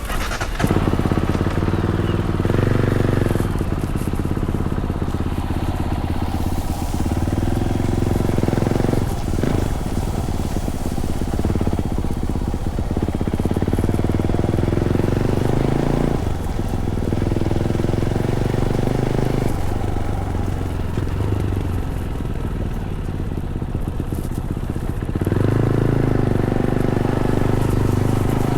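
Fantic Caballero 500's single-cylinder engine running through its stock Arrow exhaust, heard from the rider's seat. The engine note drops and picks up again several times, as the throttle is rolled off and opened.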